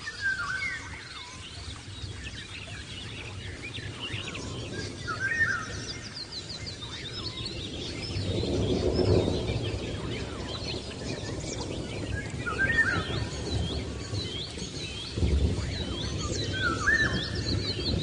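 Several birds chirping and calling, with many short, repeated chirps and quick up-and-down whistles overlapping. A low rumbling noise swells up about halfway through and again near the end.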